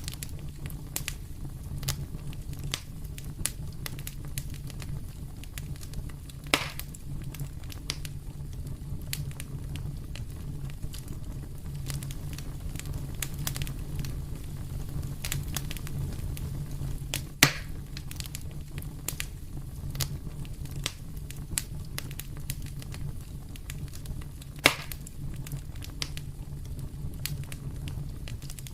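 Wood fire burning in a fireplace: a steady low rumble of the flames with frequent small crackles and a few louder sharp pops, about a third of the way in, just past halfway, and near the end.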